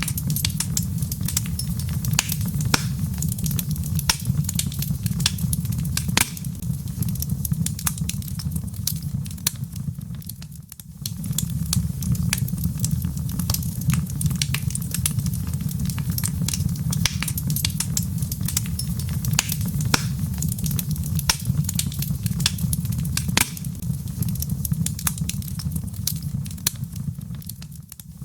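Log fire in a fireplace crackling, with frequent sharp pops and snaps over a steady low rumble. The sound briefly dips about ten seconds in and again near the end.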